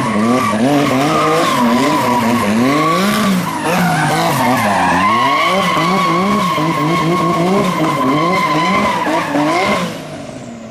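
Car drifting: the engine is revved up and down in quick, repeated throttle blips while the tyres squeal steadily. It all drops away near the end.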